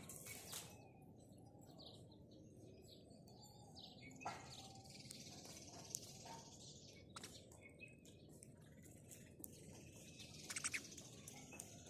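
House sparrows chirping faintly: scattered short chirps, with a quick run of them about ten and a half seconds in, over a steady low background rumble.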